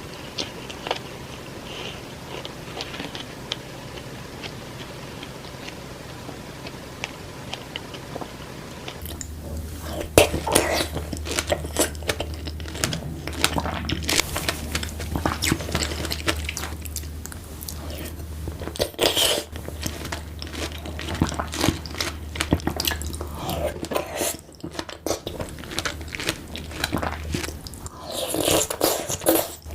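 Close-miked eating sounds of fresh strawberries with whipped cream and Nutella being bitten and chewed: light, sparse clicks at first, then from about nine seconds in a much louder run of juicy bites and chewing over a steady low hum.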